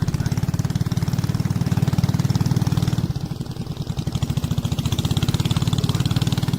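Small boat's engine running steadily with a fast, even pulse, easing off slightly for about a second around three seconds in.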